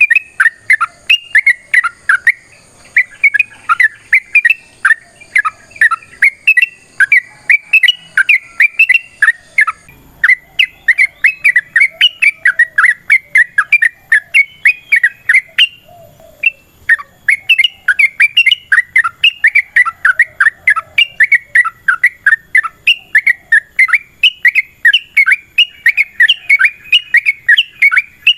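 Yellow-vented bulbul (trucukan) singing a long, fast run of short, bubbly chattering notes, many per second, loud and unbroken except for a brief pause a little past the middle.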